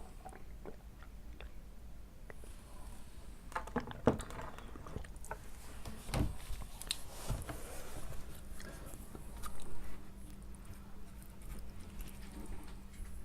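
A person chewing spaghetti, with scattered wet clicks and short bursts of mouth noise; the loudest come about four seconds in, around six to seven seconds, and near ten seconds.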